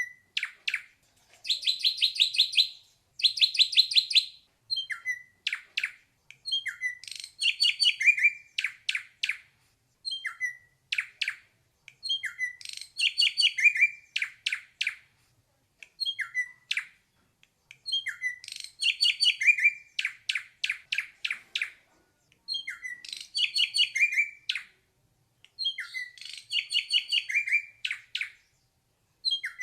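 Ashy drongo singing: phrase after phrase, every two to three seconds, each made of a few short notes that lead into a fast, rattling trill.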